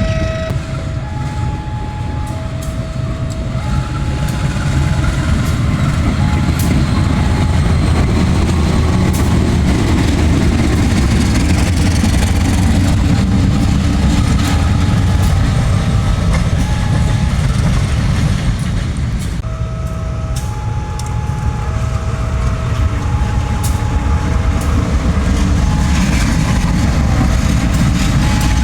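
A train hauled by two diesel-electric locomotives, a CC 203 and a CC 201, passing close by with a heavy, steady rumble of engines and wheels that builds about four seconds in. Over it a level-crossing warning sounds an alternating two-tone chime, plainest at the start and again from about twenty seconds in.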